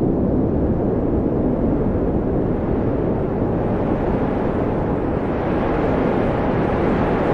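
Steady wind blowing, a deep rushing noise with no gusts or breaks, swelling slightly in the second half.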